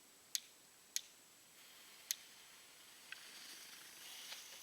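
Small category 1 consumer fireworks going off: three sharp pops, the first two about half a second apart and the third a second later, then a fizzing hiss that builds as more of them catch, with a few faint crackles.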